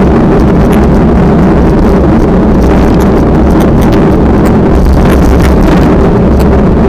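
Loud, steady wind buffeting the microphone, with a low rumble underneath.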